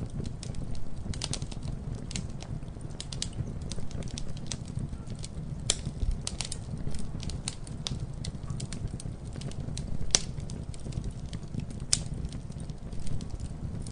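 Campfire crackling: wood burning with irregular sharp pops and snaps over a steady low rumble of the flames, with sharper pops about six, ten and twelve seconds in.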